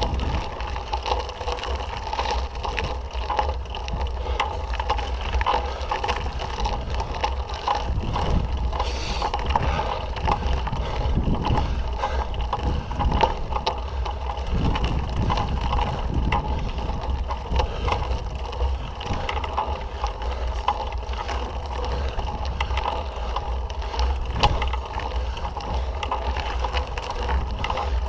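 Mountain bike being ridden on a dirt trail: steady wind rumble on the microphone, with tyre noise and many small rattles and clicks from the bike over the bumps.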